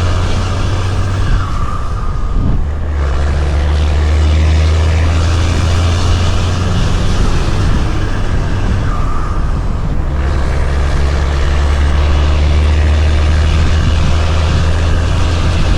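Heavy-haul semi truck's diesel engine pulling a loaded lowboy, a loud low drone with road noise that eases off twice and picks up again.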